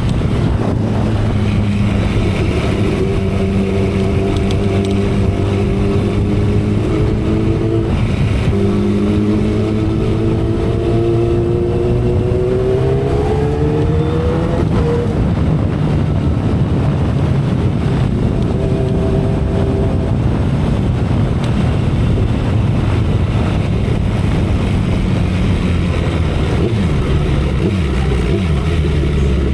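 2012 Kawasaki Ninja ZX-10R inline-four engine running at expressway speed under heavy wind and road noise. About a quarter of the way in the engine note dips, then rises steadily for several seconds as the bike accelerates and breaks off about halfway through, after which the wind noise is the louder sound.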